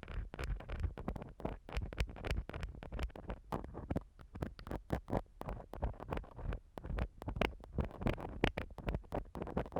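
An ear-cleaning tool scratching and scraping in the ear of an ASMR microphone: a dense run of irregular crackly scrapes and small taps.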